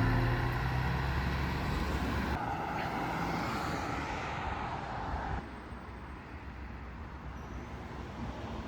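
Vehicle running noise: a steady rumble that loses its low end about two seconds in, then a hiss that steps down in level about five seconds in.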